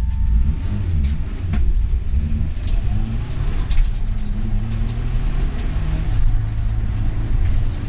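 Mitsubishi Lancer Evolution V's turbocharged four-cylinder engine heard from inside the cabin while it is driven hard on a race circuit, its pitch rising and falling with the revs. Several sharp clicks come through, clustered between about two and four seconds in.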